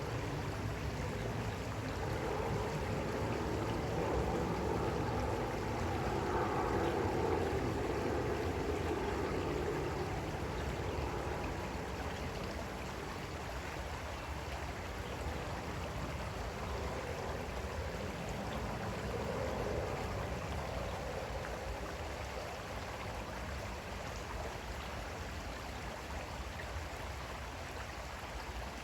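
Creek water flowing steadily over stones, a little fuller in the first part.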